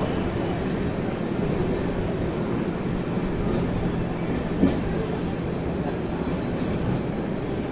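Train running on the rails, heard from its own open doorway: a steady rumble of wheels and coach, with one short clack from the wheels over a rail joint about halfway through.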